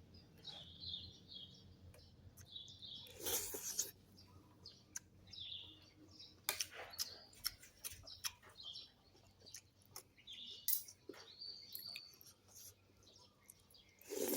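Small birds chirping in short, repeated high calls, with scattered sharp clicks and clinks.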